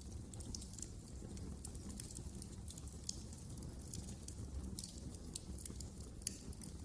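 Wood fire crackling in a fireplace: frequent small, irregular snaps and pops over a low steady rumble.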